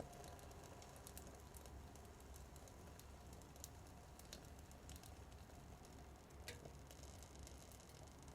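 Faint, sparse crackling of a small wood fire burning in a miniature wood stove: irregular sharp ticks and pops over a low steady hum.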